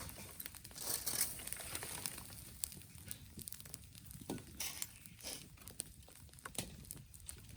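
Dry leaves and twigs rustling and crinkling, with irregular small snaps and clicks.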